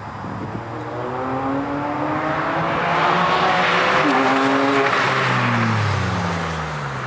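Porsche 997 Carrera's flat-six exhaust as the car drives past: the engine note rises in pitch, is loudest midway, then falls away over the last couple of seconds.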